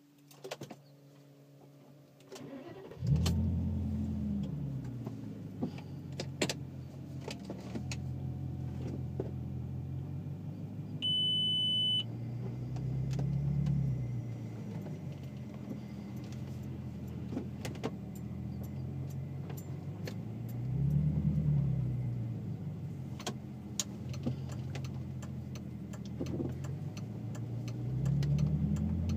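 The VW Passat W8's 4.0-litre W8 engine starting about three seconds in, already warm, then idling through a custom stainless exhaust with twin rear mufflers. It is blipped up and back down three times. A short electronic beep sounds about eleven seconds in, along with scattered light clicks.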